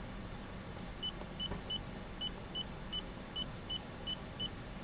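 Handheld OBD2 scan tool beeping briefly at each button press while scrolling through its vehicle-selection menu: about ten short, identical high beeps at an uneven pace, starting about a second in, over a faint low steady hum.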